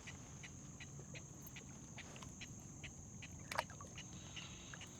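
Quiet marsh ambience: a steady high-pitched insect drone with faint chirps repeating about two to three times a second, and a single sharp click about three and a half seconds in.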